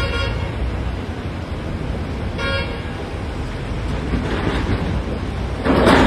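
Heavy quarry machine's diesel engine running low and steady, with two short horn toots about two and a half seconds apart. Near the end comes a loud crash of rock being dropped.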